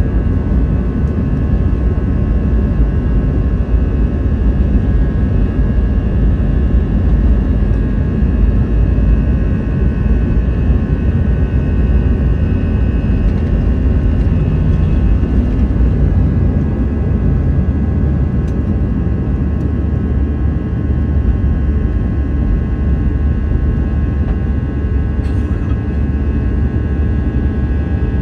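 Airbus A320 jet engines heard inside the passenger cabin: a loud, steady deep rumble with several steady whining tones above it.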